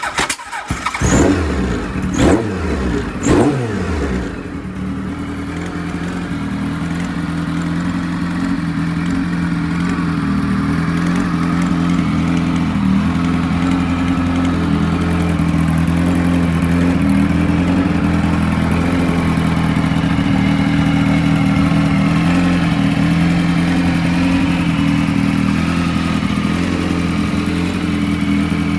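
Kawasaki KZ1100R air-cooled inline-four, bored out to 1135cc and fed by Yoshimura TMR carburettors, just fired up: the throttle is blipped three times in the first few seconds, then it settles into a steady idle.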